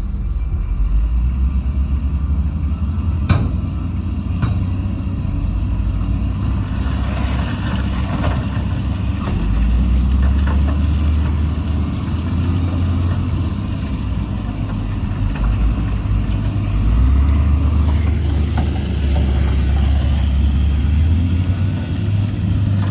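Heavy diesel engine of construction machinery running, its level swelling and easing. There are two sharp knocks a few seconds in and a hiss about seven seconds in.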